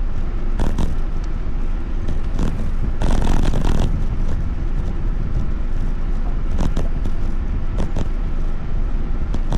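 Steady low rumble of wind and road noise while riding, with scattered short knocks and rattles, the densest about three seconds in.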